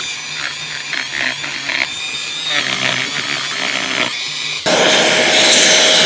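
Dremel rotary tool with a sanding drum grinding plastic filler, running unevenly at first. About three-quarters of the way in it jumps louder into a steady high whine with a harsh sanding hiss.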